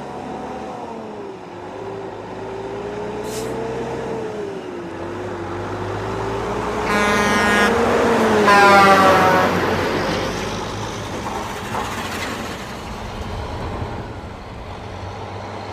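Truck engines running with a slowly wavering pitch, and a vehicle horn honking twice, about seven and eight and a half seconds in. The second, louder honk falls in pitch.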